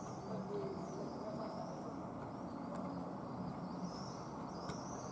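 Birds calling outdoors: repeated short high chirps over a steady low background hum.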